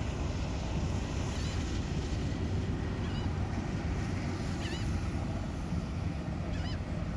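Steady outdoor rushing noise of wind and water, with a faint short high chirp four times, about every second and a half.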